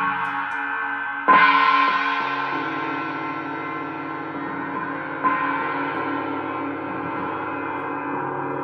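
Gongs ringing in a dense, sustained wash of overlapping tones, struck again about a second in and once more about five seconds in, each strike swelling the sound and then slowly dying away; the first strike is the loudest.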